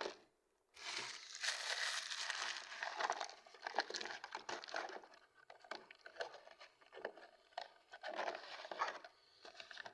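Food packaging being handled and crumpled: a dense crinkling and crackling that goes on in uneven spells, busiest in the first few seconds.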